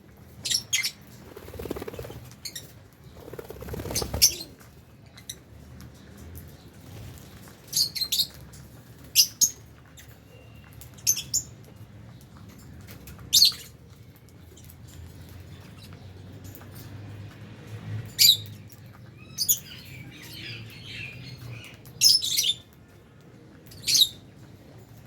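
Lovebirds giving short, sharp, high-pitched chirps, singly or in quick pairs every second or two, with softer rustling about two and four seconds in.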